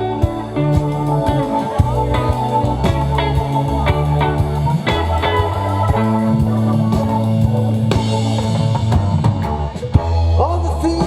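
Live band playing an instrumental passage of the song, a guitar carrying the lead over a steady bass line and regular percussive hits.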